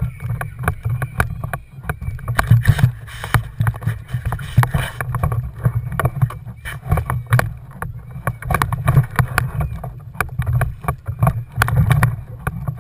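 Kayak on the water: water sloshing against the hull under a steady low rumble, with frequent sharp knocks and bumps throughout. It is noisiest from about two and a half to five seconds in.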